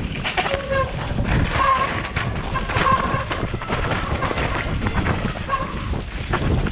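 Wind buffeting the microphone of a camera on a mountain bike riding down a trail, with frequent short knocks and rattles from the bike over the ground and a few brief pitched tones.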